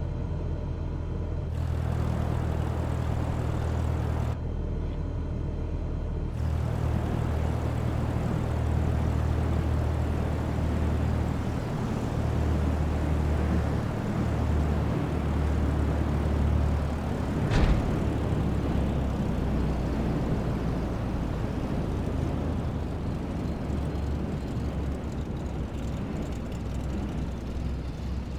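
Cessna 172's piston engine and propeller running steadily through a landing approach. One sharp thump comes about two-thirds of the way through.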